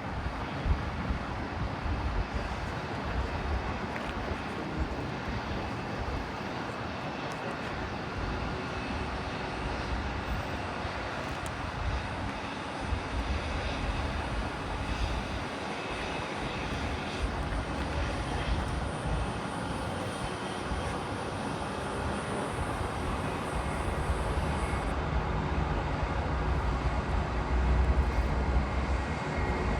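Jet airliner engines heard at a distance: a steady rumble and rushing noise that grows louder over the last few seconds.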